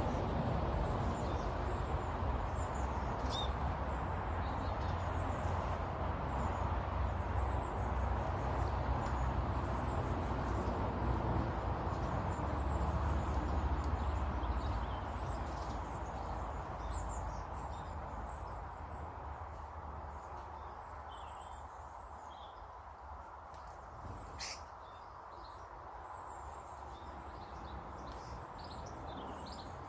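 Small garden birds chirping in short, scattered calls over a steady low rumble that fades away about halfway through, with one sharp click near the end.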